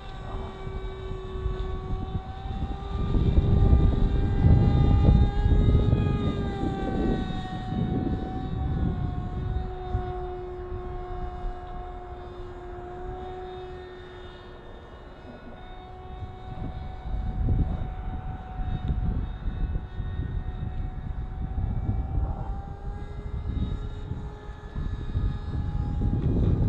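Parkzone Icon A-5 RC plane's electric motor and propeller whining steadily in flight, the pitch drifting down and back up a little. Gusts of wind rumble on the microphone, heaviest a few seconds in.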